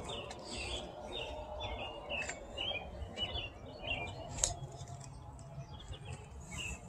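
Small birds chirping in quick, short, repeated notes over a low background rumble, with one sharp click about four and a half seconds in.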